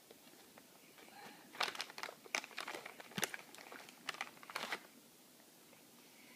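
Plastic snack bag crinkling as it is handled, in a run of short, quiet rustles and crackles.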